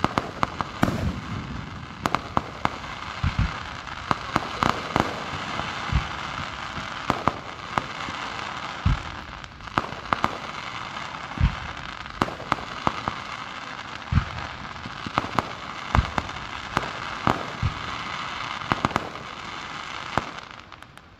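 Fireworks display going off continuously: a steady hissing crackle with many sharp bangs at irregular intervals, dying away near the end.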